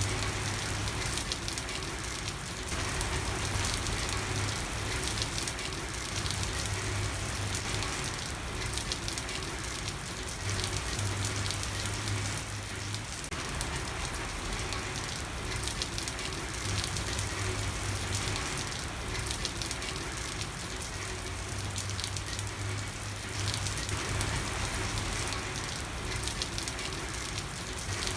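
Steady night rain falling on a street, a dense patter of drops, with a low hum coming and going underneath.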